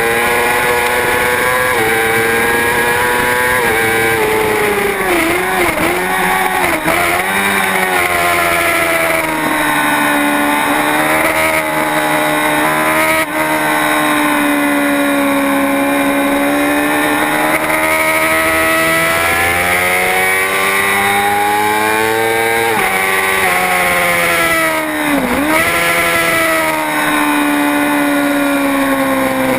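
Superbike racing engine at speed, its pitch rising and falling with throttle and gear changes: a few quick dips about five to seven seconds in, a slow sag and climb through the middle, and a sharp drop and recovery near the end, as when braking and downshifting for corners.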